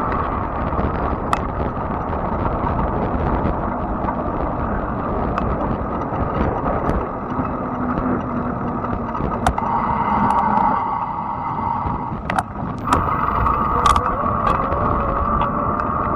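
Fat-tire electric bike being ridden: a steady rush of wind and tyre noise with a whine that wavers in pitch. A few sharp clicks and knocks come about twelve to fourteen seconds in.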